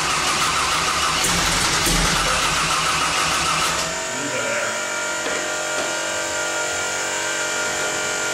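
Twin-turbo Pontiac Firebird engine running on its first fire-up: loud for about the first four seconds, then settling to a quieter, steady idle.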